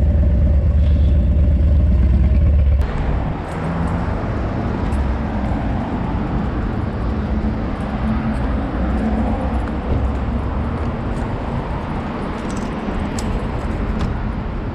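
Vehicle running with a steady low rumble that cuts off abruptly about three seconds in. It gives way to an even wash of traffic and road noise with a few scattered clicks.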